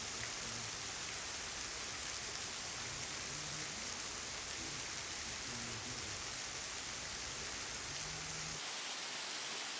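Steady hiss of heavy rain falling, with no single drops or knocks standing out; near the end the deeper part of the sound suddenly drops away, leaving a thinner hiss.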